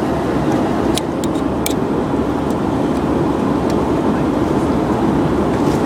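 Steady cabin noise of an airliner in flight, the even rushing hum of engines and airflow, with a few light clicks between one and two seconds in.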